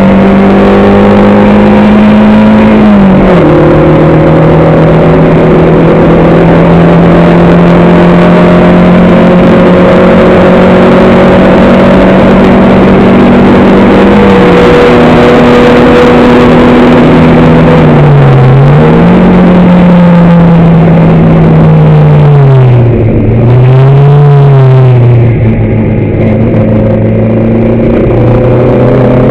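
Racing car engine at full, near-clipping loudness, heard from on board. The engine pulls at a steady high note, with an upshift about three seconds in. Later it slows with two quick dips and blips of revs, then rises again near the end.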